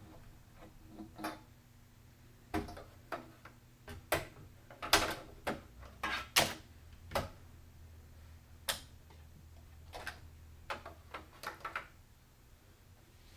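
Irregular sharp clicks and light knocks, densest in the first half and sparser toward the end, from hands handling computer parts during a PC build, over a faint low steady hum.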